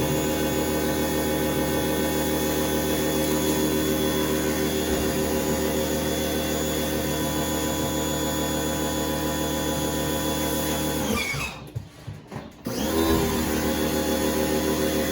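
Electric power tool motor running steadily at constant speed. It stops about eleven seconds in and starts again a second and a half later.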